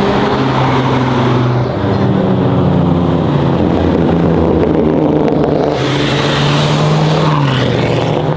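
A car engine held at high revs, its pitch holding steady and stepping up and down. A louder rushing noise comes in about six seconds in and lasts a second and a half.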